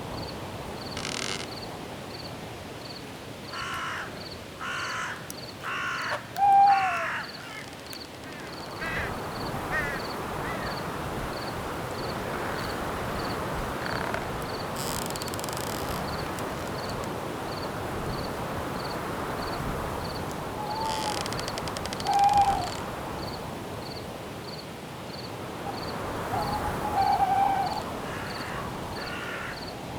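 Night forest ambience: a cricket chirping at a steady, even pace throughout, with four harsh bird calls a few seconds in. An owl hoots several times, loudest about a third of the way in and again after the twenty-second mark, over wind rustling through the branches from about nine seconds on.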